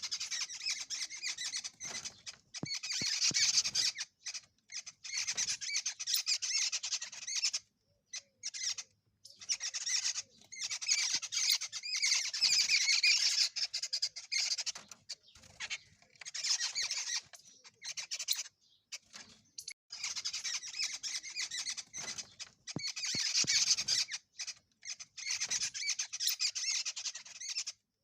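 Bird calls: harsh, noisy calls in repeated bouts of one to three seconds, with short pauses between.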